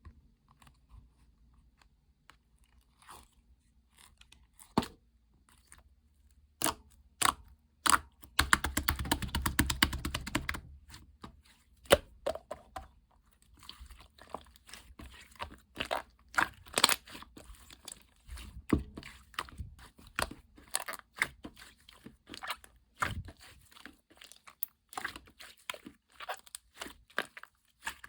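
Slime being squished and poked by hand, giving irregular crunchy clicks and pops. About a third of the way through comes a couple of seconds of dense crackling.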